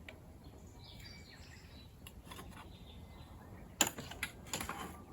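A bird chirps about a second in, over outdoor background noise; near the end come a few sharp clicks and knocks, the first the loudest.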